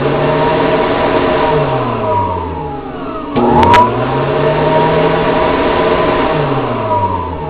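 Tornado simulator's fan motor humming. Twice its pitch sinks for about a second, then jumps back up with a couple of sharp clicks.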